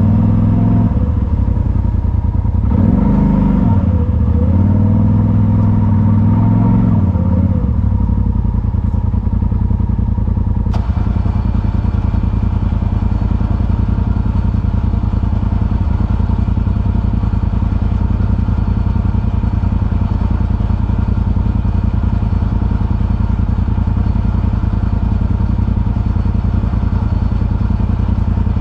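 Side-by-side UTV engine running on a trail, its revs rising and falling for the first several seconds. After about ten seconds it settles into a steady drone.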